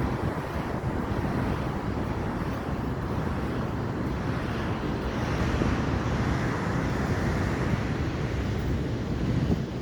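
Ocean surf rushing steadily, with wind on the microphone, swelling louder about five seconds in as a wave comes through.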